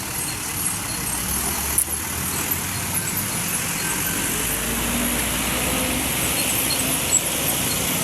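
Road traffic noise with motor vehicle engines running, and a low engine rumble growing stronger about halfway through. A single sharp click comes about two seconds in.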